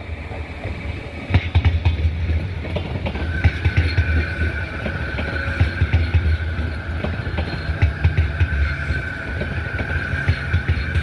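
Renfe Class 449 electric multiple unit running on the track: a heavy rumble with many quick clacks and knocks. About three seconds in, a steady high whine starts and holds.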